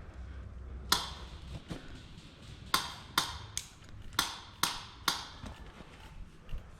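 Airsoft guns firing single shots: about seven sharp cracks spaced roughly half a second apart, starting about a second in.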